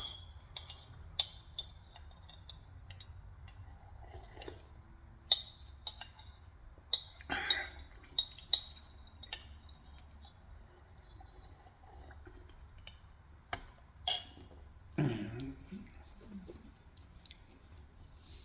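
A spoon clinking against a soup bowl now and then in short, sharp taps, with a few soft eating sounds in between.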